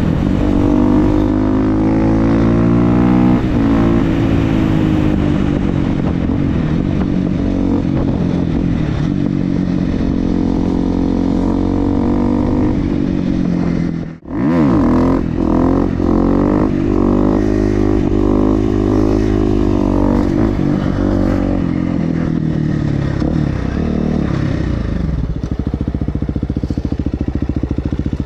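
Supermoto motorcycle with an FMF exhaust being ridden, the engine revving up and dropping back again and again through gear changes. It cuts out briefly about halfway through, and near the end it settles into steady, even running.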